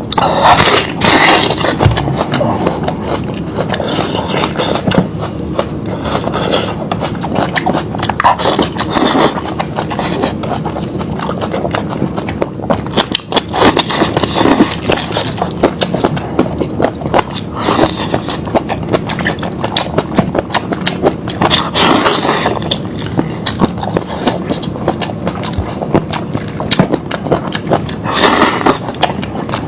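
Close-miked eating sounds: steady wet chewing and lip-smacking on lamb meat, with a dense run of small clicks and several louder bites or slurps.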